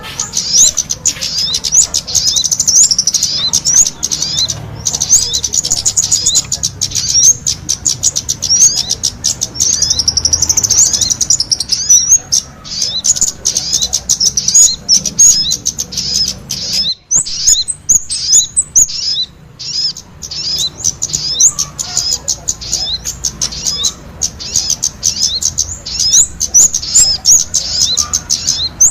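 Kemade and sogon songbirds singing nonstop in full voice: a dense, rapid stream of high chirps and trills, with a short break about 17 seconds in.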